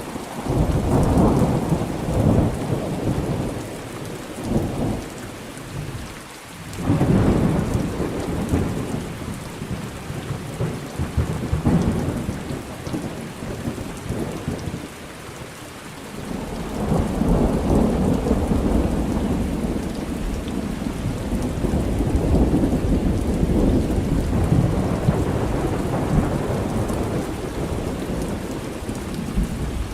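Thunderstorm: steady rain with repeated rolls of thunder, one about a second in, a loud one about seven seconds in, and a long rumble rolling from about halfway through almost to the end.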